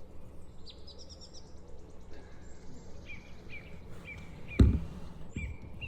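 Small birds chirping, a series of short repeated notes with some thinner high calls. A loud thump about four and a half seconds in, and a softer one shortly after.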